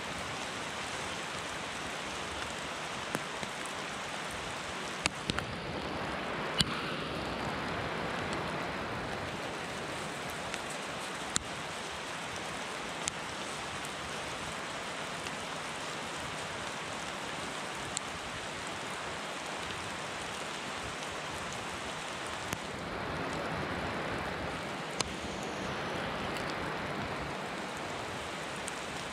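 Steady rain falling, with scattered sharp drips landing close by. Twice the noise swells briefly.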